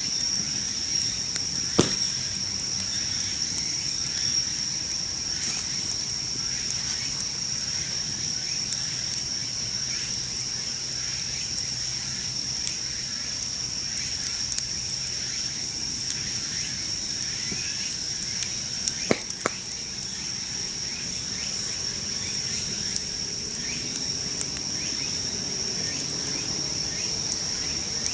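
Wood campfire crackling with many small ticks and two sharper pops, one about two seconds in and one about nineteen seconds in, over a steady high-pitched trill of insects.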